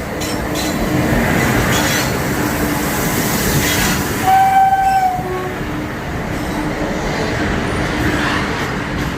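Steady rumble of a MEMU passenger train, heard from on board. A short, single train horn blast sounds about four seconds in.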